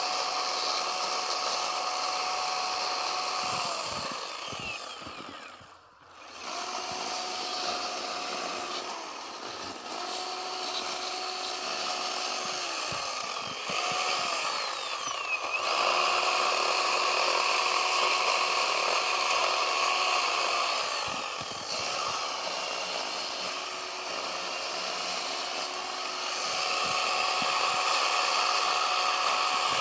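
Chainsaw revved up and held at high speed in repeated stretches of a few seconds, dropping back between them as it cuts into a block of packed snow; the sound briefly falls away about six seconds in.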